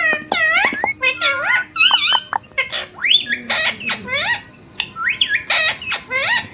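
Indian ringneck parrot vocalizing: a rapid run of loud, high chirps and squawks that sweep up and down in pitch, with a brief pause a little past the middle.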